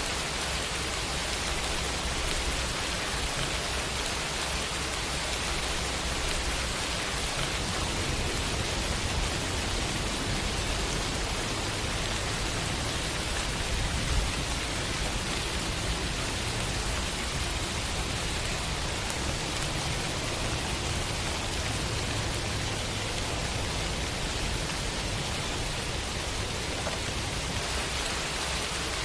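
Steady rain falling in a city, an even dense hiss with a low rumble underneath that swells and fades. One short sharp tick about halfway through.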